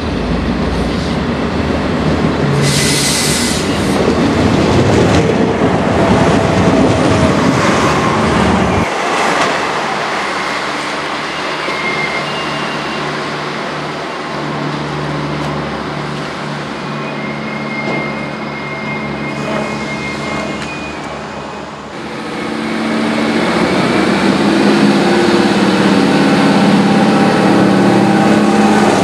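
Diesel passenger trains approaching and passing through stations: engine running and wheels rolling on the rails, in several separate takes that change abruptly twice. A brief high-pitched squeal comes about three seconds in, and near the end a diesel unit's engine grows louder as it runs close by.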